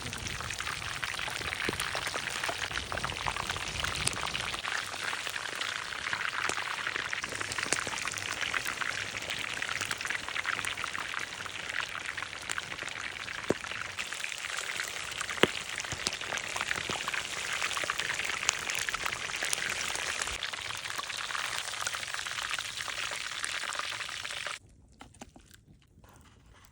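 Chicken roasting over a wood fire: a dense, steady crackling sizzle full of tiny pops, which cuts off suddenly near the end.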